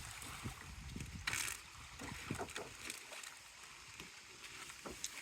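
Canoe paddle strokes in lake water, with a louder splash about a second and a half in and a low rumble that fades out about three seconds in.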